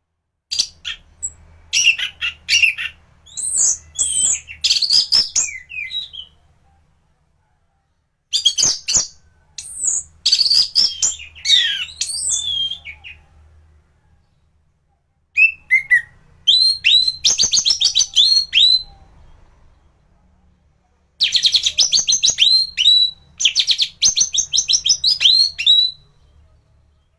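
Orange-headed thrush (anis merah) in full song: four bursts of a few seconds each with short pauses between, made of fast varied twittering phrases and rapid trills, with runs of quick downward-slurred notes in the later bursts.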